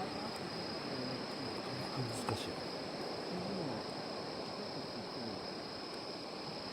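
Crickets trilling steadily in a high, even tone, with a single crackling pop from the campfire about two seconds in.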